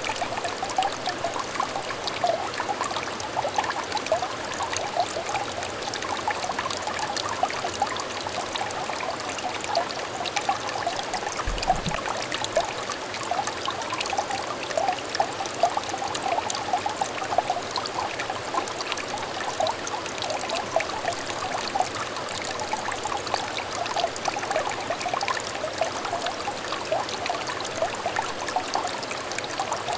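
Shallow stream water trickling and splashing steadily over stones, a continuous babble of small bright gurgles. A brief low thump about twelve seconds in.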